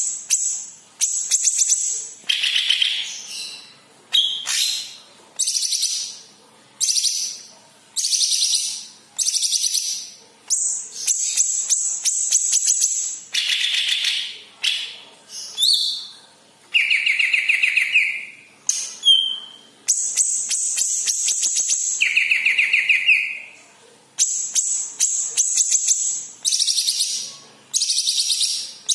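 Yellow-headed cucak ijo (leafbird) singing: a run of short, rapid, chattering trilled phrases, roughly one a second, each trailing off. A few longer, lower warbled phrases come about two seconds in and again in the middle.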